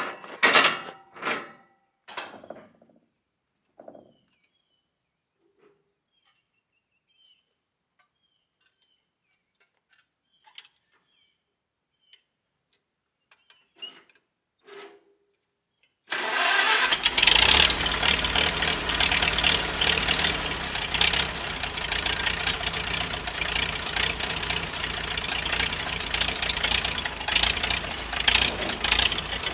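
A few knocks and footsteps, then near silence with faint ticks; about sixteen seconds in an engine suddenly comes on and runs loud and steady.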